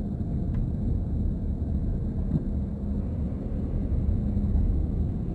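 Steady low rumble of a car driving, road and engine noise heard inside the cabin.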